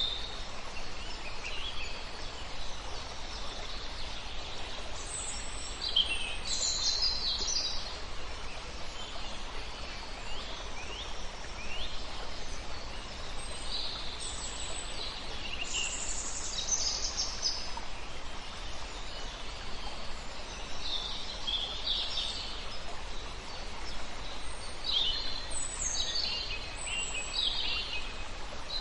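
Songbirds singing in short, repeated high phrases over a steady rushing noise from a river.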